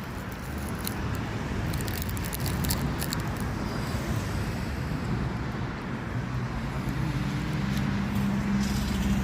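Road traffic: a motor vehicle's engine running nearby, a steady low rumble with a hum that comes in and grows louder over the last couple of seconds.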